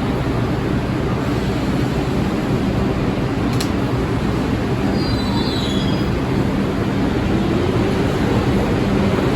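New York City subway train running with a steady rumble and rattle. There is a sharp click about three and a half seconds in, and the wheels squeal briefly, falling in pitch, about five seconds in.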